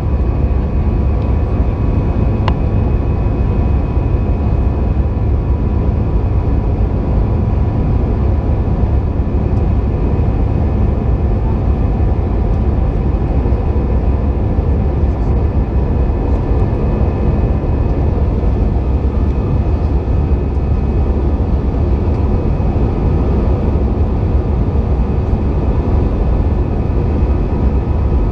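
Airbus A320 cabin noise: a steady, loud low rumble of the jet engines and airflow, with a few steady whining tones on top. A single faint click comes about two and a half seconds in.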